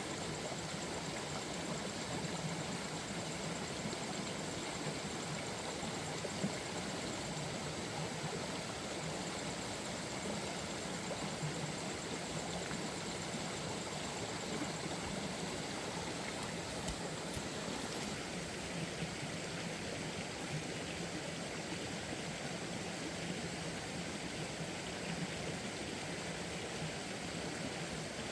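Steady rushing water, an even hiss that does not change, with a few faint ticks.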